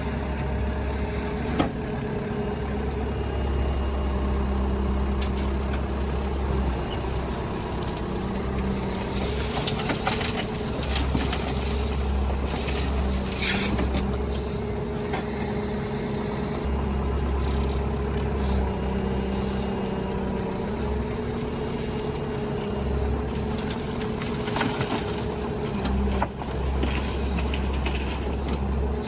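Diesel engine of heavy earthmoving machinery running steadily, its low rumble swelling and easing every few seconds as the load changes, with a few sharp knocks and clatters.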